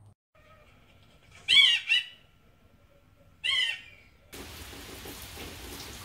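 Three short, loud arching bird calls: two in quick succession about a second and a half in, and a third two seconds later. From about four seconds in, steady rain takes over.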